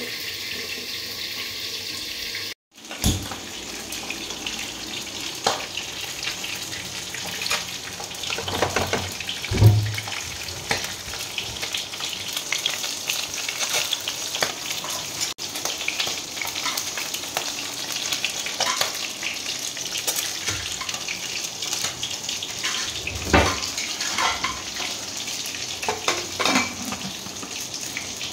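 Food frying in oil in a kadai (Indian wok): a steady sizzling hiss with scattered knocks and scrapes of a utensil against the pan.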